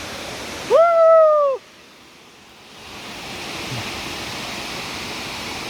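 Waterfall rushing steadily. About a second in comes one loud, drawn-out high call, pitch rising at the start and falling at the end. Just after it the water sound dips for a moment, then returns.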